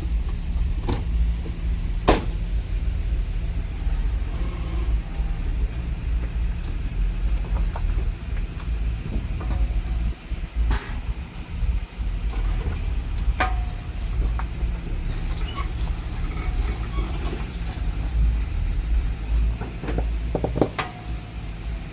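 A motor vehicle's engine running steadily as a low rumble, with a few sharp clicks or knocks over it.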